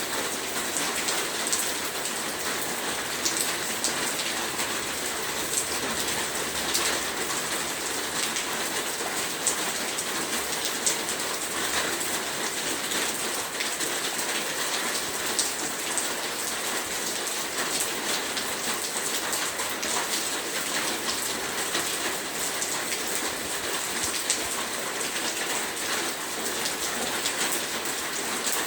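Heavy rain falling steadily, a dense hiss with many sharp drop patters and no change in intensity.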